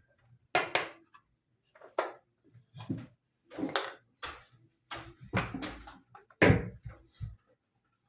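Dishes and kitchenware being handled: a string of separate clinks and knocks as things are picked up and set down.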